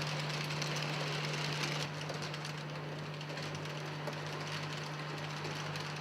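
Model train running on the layout's track: a steady low hum with a continuous fine rattle, a little quieter about two seconds in.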